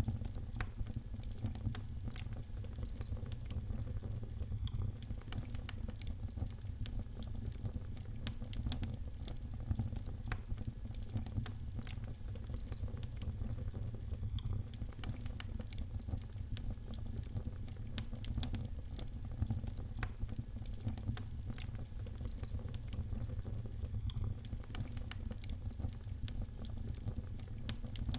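Fire in a fireplace crackling, with many irregular sharp pops over a steady low rumble.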